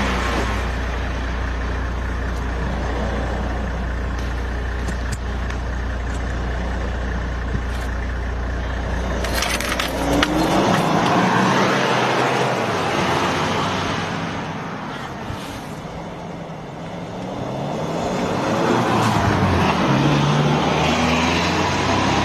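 A vehicle's engine running, then revving up about ten seconds in and again near the end.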